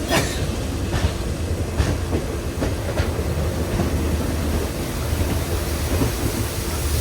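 Poorna Express passenger train running on the rails, a steady rumble with wheels clacking over rail joints several times in the first three seconds.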